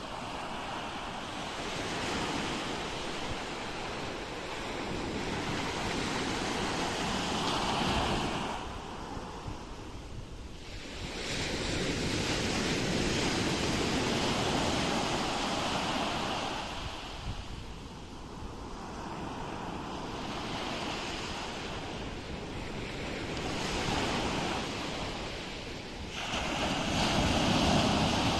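Ocean waves breaking and washing on a shore, the surf swelling and ebbing in slow surges every several seconds, with a big surge building near the end.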